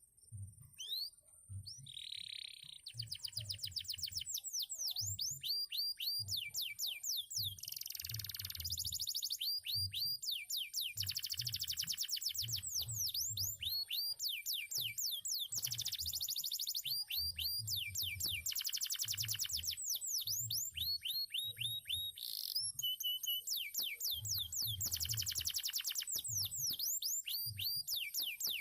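Male canary singing a long, nearly unbroken song of rapid high trills and swooping rolled phrases, starting about two seconds in. Low, irregular thuds pulse underneath.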